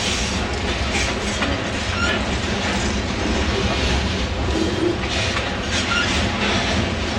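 Freight train of covered hopper cars rolling past, a steady rumble with rhythmic clickety-clack of wheels over the rail joints and a few brief high wheel squeaks.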